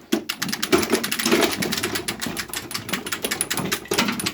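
Lawnmower being rolled across a concrete floor, its wheels giving a fast, steady clicking rattle.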